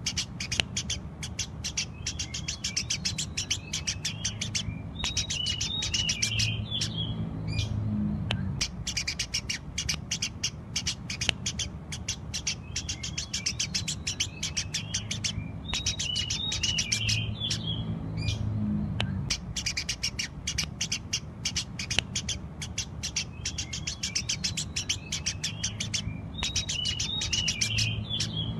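Eurasian tree sparrows chirping rapidly and without a break, many sharp chirps a second. About every eleven seconds a run of lower twittering calls comes in over a low hum.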